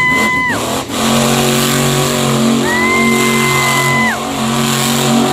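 Monster truck engine running loud and revving. A high whine swoops up, holds for about a second and a half, then drops, with one such whine cutting off about half a second in. A steady, lower engine drone sets in about a second in.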